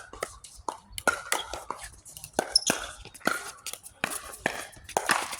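Pickleball rally: repeated sharp pops of paddles hitting the plastic ball, mixed with ball bounces and footfalls on the court, at an uneven pace of one to three clicks a second. Faint voices murmur underneath.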